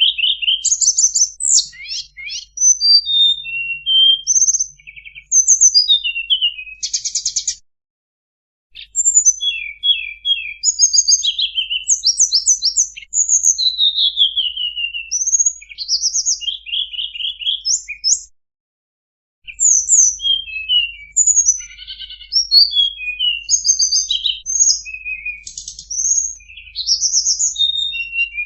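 Recorded song of a tledekan bambu played as a bird-trapping lure call: fast, varied high chirps, rapid trills and down-slurred notes in quick succession, with two short silent breaks, about eight and nineteen seconds in.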